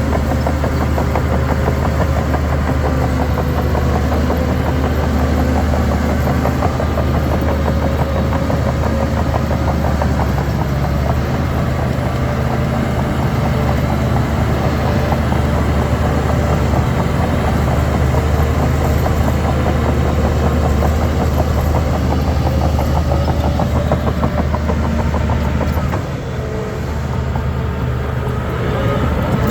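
Heavy diesel engine of a Shantui DH17 C3 bulldozer running steadily under load. Its note eases and drops about 26 seconds in, then picks up again near the end.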